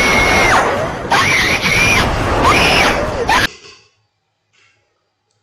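A shrill, high-pitched scream held in long cries with sliding pitch, breaking twice, then cutting off abruptly about three and a half seconds in.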